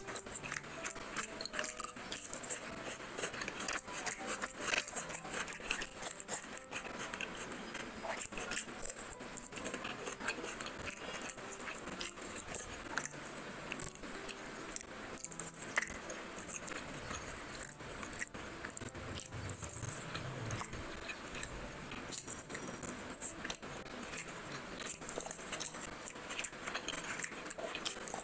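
Close-miked chewing and biting of fried fish, with a dense run of small mouth clicks.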